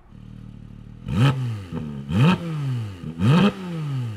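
Porsche 718 Cayman GT4 RS's naturally aspirated 4.0-litre flat-six idling, then revved three times, about once a second. Each rev climbs quickly and falls back toward idle.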